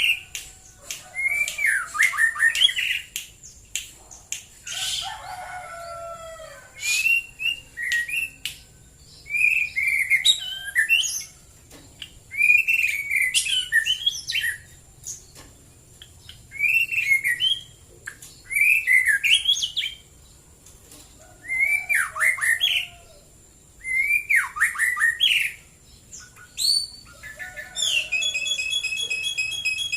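White-rumped shama singing: short swooping whistled phrases repeated every two to three seconds, with sharp clicks between them and a steady held note near the end.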